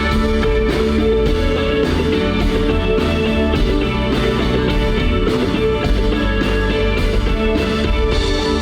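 Live band music, a rock band playing with guitar prominent, steady and loud.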